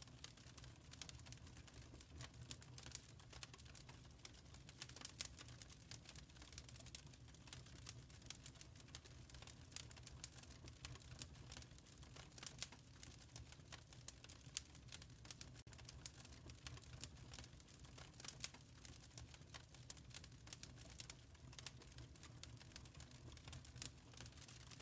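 Faint crackling of a wood fire: irregular small pops and snaps over a steady low rumble.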